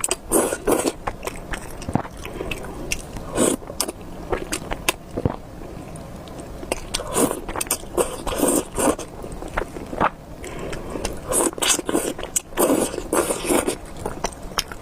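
Close-miked mouth sounds of eating spicy beef noodles: wet chewing and bites coming in irregular bursts, busier in the second half.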